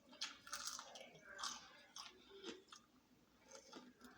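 A person chewing and biting fried chicken, a run of irregular short chews, the loudest in the first second and a half.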